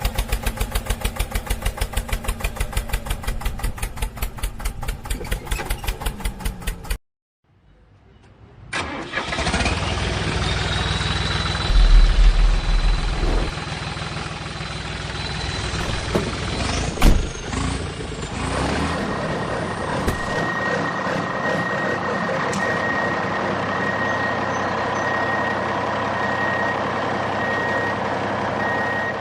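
An engine sound. It opens with an even, fast clatter of about eight beats a second that stops suddenly. After a brief gap an engine starts, builds up and runs steadily, with one knock about two-thirds of the way through.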